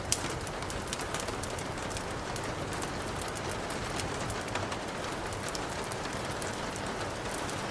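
Steady rain, with scattered sharp ticks and crackles.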